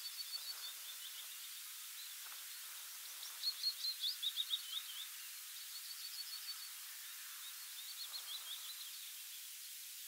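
A songbird singing four short phrases of rapid notes, the loudest about three and a half seconds in, over a steady background hiss.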